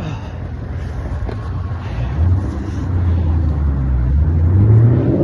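A motor vehicle's engine in nearby traffic, a low hum growing louder, then rising in pitch as it accelerates near the end.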